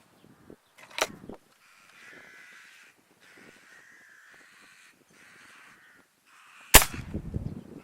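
Crows cawing repeatedly. Two sharp cracks cut through the calling, a small one about a second in and a much louder one near the end, the second followed by a low rumble.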